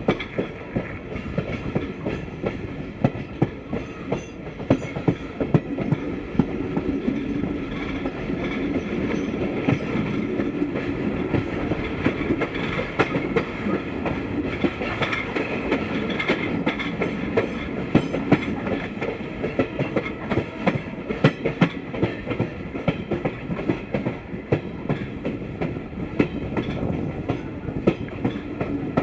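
Broad-gauge express train coaches running on the rails, wheels clicking over rail joints again and again above a steady rumble.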